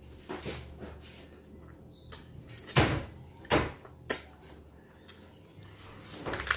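Hard corn taco shell crunching while being chewed and bitten, close to the microphone: a handful of sharp cracks, the loudest about three and three and a half seconds in, and another crunch near the end as a fresh bite is taken.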